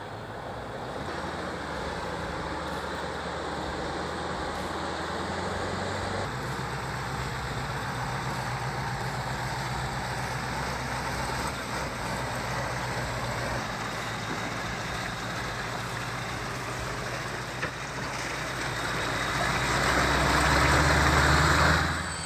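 Diesel engine of a 14-ton excavator running under load, a steady low hum whose pitch steps up about six seconds in and grows louder near the end.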